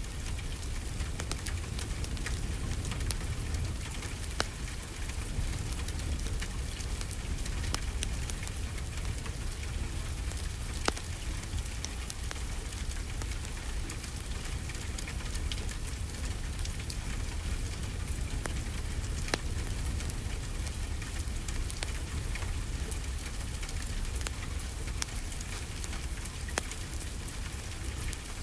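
Steady rainfall together with a crackling wood fire, its small pops scattered throughout over an even hiss and a low rumble.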